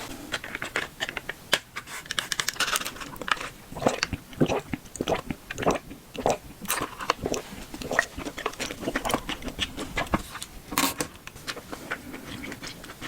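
Close-miked ASMR eating: a person biting and chewing boba and desserts, with a dense, irregular run of wet clicks and crunches.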